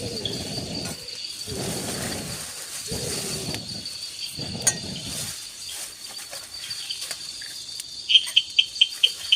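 Crickets trilling steadily in the forest at dusk, with five rhythmic swishing noises in the first five seconds. Near the end comes a quick run of six sharp chirps, the loudest sound here.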